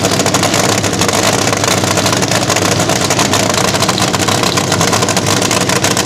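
A loud V8 engine running steadily at a fast idle, with a rapid, even firing patter and no revving.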